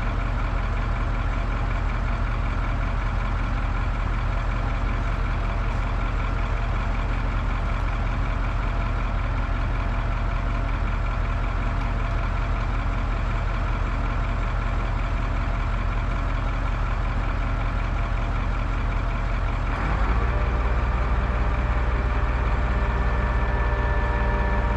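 Crane's heavy diesel engine running steadily. About twenty seconds in, its note shifts and it gets slightly louder.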